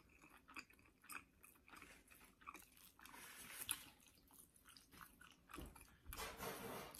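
Close-up chewing of crispy fried chicken: quiet crunches and wet mouth clicks, louder and more continuous near the end.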